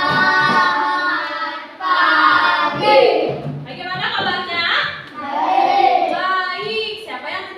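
Young children singing a song together, in phrases of a second or two separated by short breaths.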